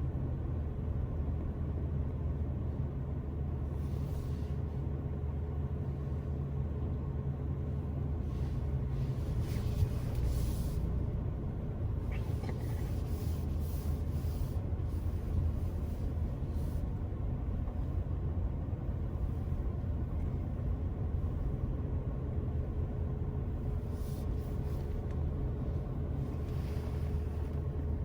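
Car driving along a road: steady low rumble of engine and tyre noise with a faint steady hum, and several brief swells of rushing noise, the strongest about ten seconds in.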